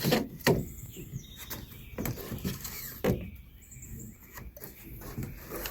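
Scattered sharp knocks and clicks from lumber and tools being handled while measuring boards for cutting, the loudest near the start and about three seconds in.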